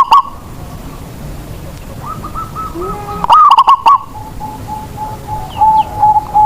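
Zebra dove (perkutut) cooing its song: strings of short, evenly spaced coo notes, with a very loud cluster a little over three seconds in, then a steady run of shorter notes near the end.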